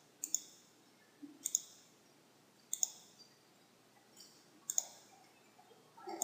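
Computer mouse clicking: four sharp double clicks spread over a few seconds, each a quick pair of ticks.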